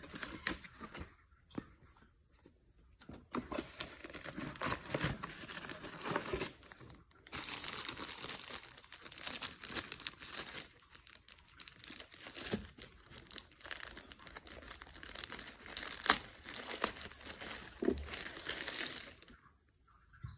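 Packaging being crumpled, crinkled and torn by hand, with sharp handling clicks, in uneven stretches that stop about a second before the end.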